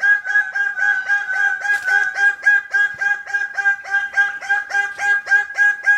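A bird calling: a rapid, even series of clucking notes, about five a second, at one steady pitch.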